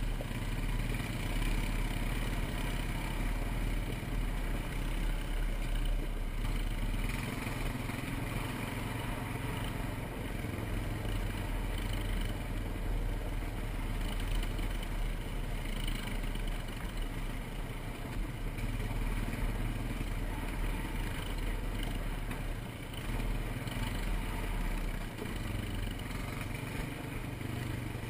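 ATV engine running steadily with a low, even drone.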